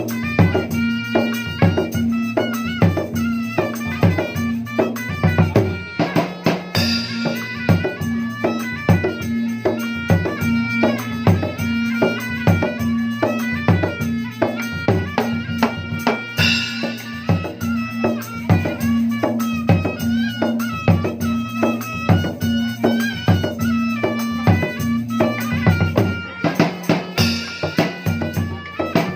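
Dangdut music built on kendang (gendang) hand-drum beats, many strokes a second, over a steady low drone with a melody line on top.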